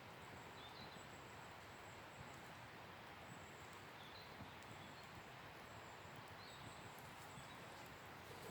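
Faint wood campfire crackling, a few scattered light pops over a steady hiss, with a few short, faint high chirps now and then.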